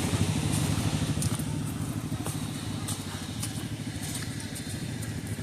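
An engine running steadily, a low rumble with a rapid, even pulse and faint crackles above it.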